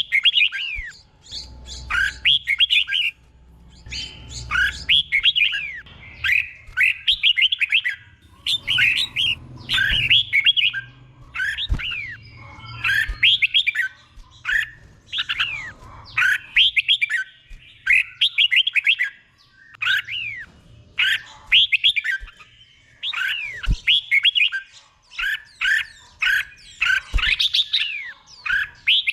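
Red-whiskered bulbul singing in the slow, clear doubled (เบิ้ล) style: short phrases of whistled notes that glide up and down, about one phrase a second, each followed by a short gap.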